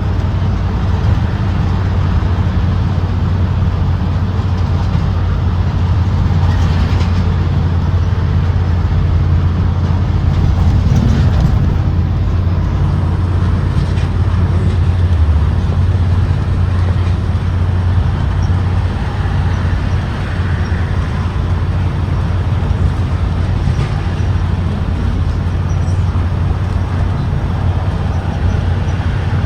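Propane-powered Blue Bird Vision school bus under way: a steady low engine hum with road noise, holding nearly even throughout.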